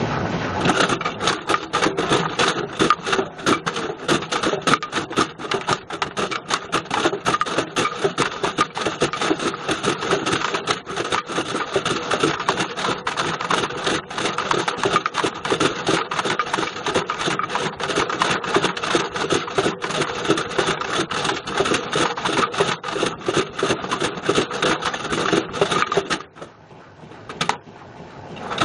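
Beko washing machine drum turning with a Bush VCR807 video recorder tumbling inside: a loud, continuous rapid clatter of hard plastic and metal knocking against the drum. It breaks off briefly near the end, then starts again.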